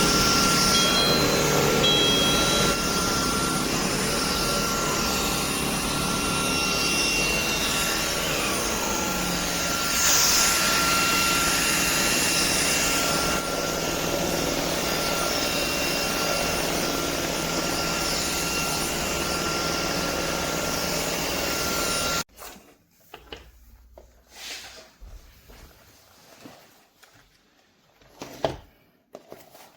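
Shark PowerPro IZ380EU cordless stick vacuum running, a steady rushing noise with a constant whine, which cuts off abruptly about three quarters of the way through as it is switched off. A few light knocks of handling follow.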